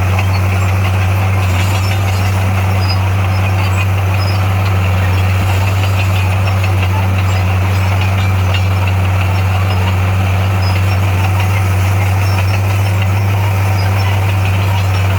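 Heavy diesel engine of construction equipment running at a steady, even speed, with a deep unchanging hum.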